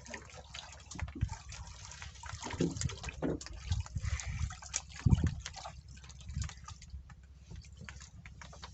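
Water splashing and sloshing, with irregular knocks and clicks throughout.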